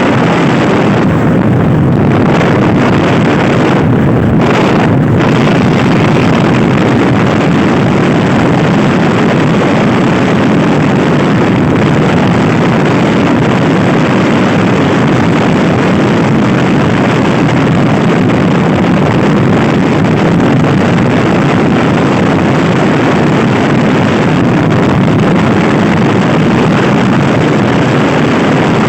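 Loud wind rushing and buffeting over the microphone of a Honda Scoopy i scooter ridden at speed, with the scooter's running mixed in underneath.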